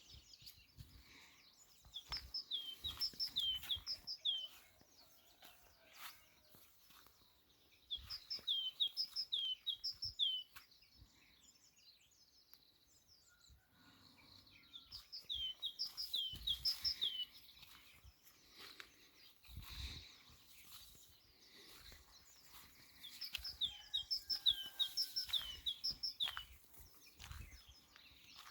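A songbird singing a short phrase of quick repeated high notes four times, about every six or seven seconds, with fainter chirps from other birds between phrases. Occasional low thumps are also heard.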